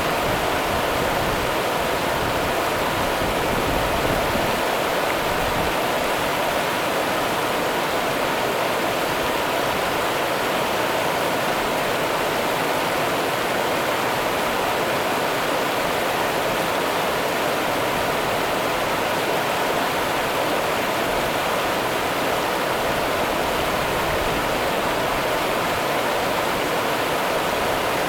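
Rio Grande river water running in a steady, even rush, with no breaks or changes.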